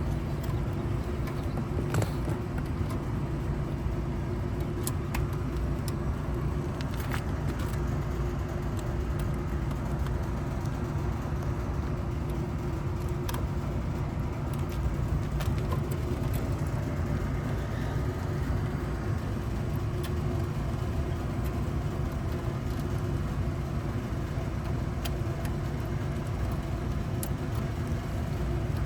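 A steady low machine hum with a few steady tones in it, and scattered light clicks and taps over the top.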